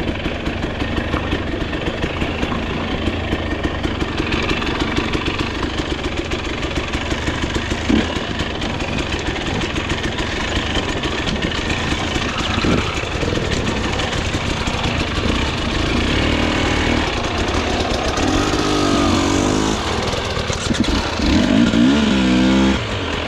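Dirt bike engine running under way on a trail, with the throttle blipped so the revs rise and fall several times near the end.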